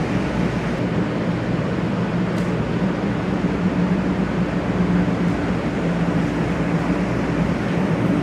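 Steady running noise of a 500 Series Shinkansen train: an even rumble with a low, constant hum.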